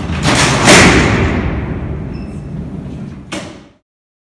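Alcatraz's sliding steel cell doors being racked by the gear mechanism: a loud clang about half a second in that rings and echoes on through the cellhouse, then a sharp clank a little after three seconds, before the sound cuts off abruptly.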